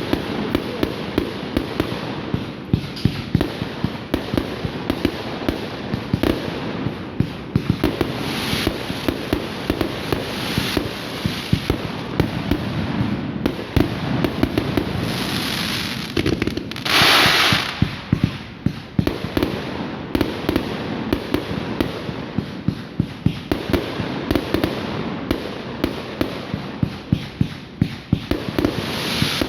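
Fireworks display: a continuous barrage of rapid bangs, with a louder burst of hissing crackle about seventeen seconds in.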